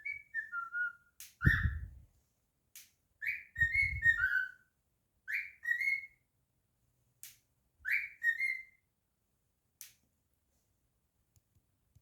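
Cockatiel whistling a tune in short phrases of two to four gliding, mostly falling notes, with sharp clicks between the phrases. Two of the phrases carry a low rumble beneath them.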